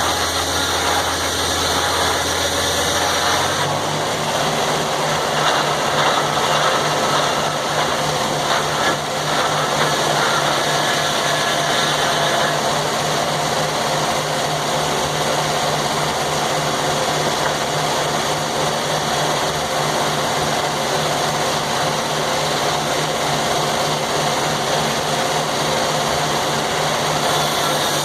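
Sawmill's engine and saw running: the engine note steps up in pitch about four seconds in and holds there until near the end, under a steady rushing noise.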